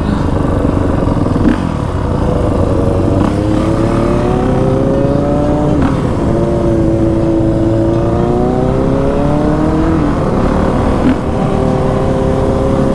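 Dirt bike engine under way. It revs up through the gears, the pitch climbing and then dropping sharply at a shift about six seconds in and again near ten seconds, then holds a steady cruise.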